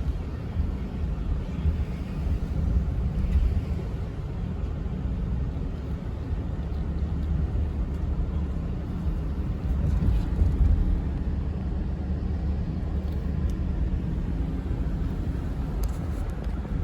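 Steady low rumble of a moving vehicle, engine and road noise, with no sudden events.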